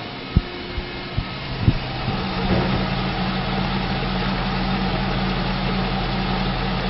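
The 2004 GMC Yukon Denali's 6.0-litre V8 starting: a few sharp clicks, then the engine catches about two seconds in and settles into a steady idle.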